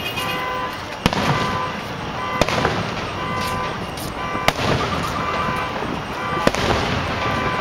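Aerial fireworks shells bursting overhead: four sharp bangs, roughly two seconds apart.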